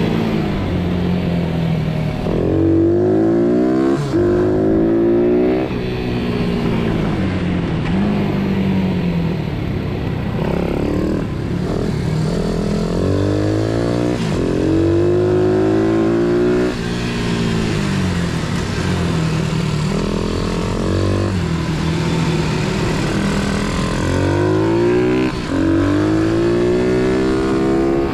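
Single-cylinder pit bike engines accelerating hard several times, the pitch climbing with each run and dropping back when the throttle closes, over a steadier lower engine note.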